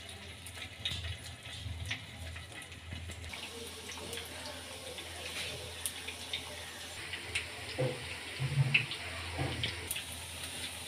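Poha and semolina tikki patties shallow-frying in oil in a nonstick pan: a steady, light sizzle with scattered small crackles.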